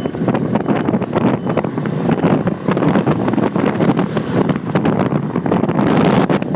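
Wind buffeting the microphone of a phone mounted on a moving motorcycle, over the steady rumble of the bike and street traffic.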